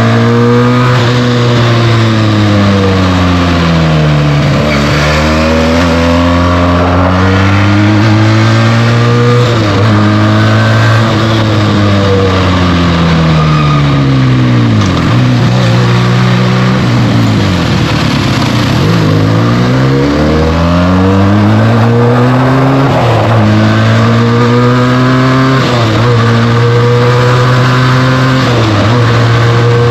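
Benelli TNT 300's 300 cc twin-cylinder engine through its stock exhaust, riding in traffic: the engine note climbs with acceleration, breaks off sharply at gear changes and falls away on deceleration, over and over. It drops lowest about halfway through before climbing again.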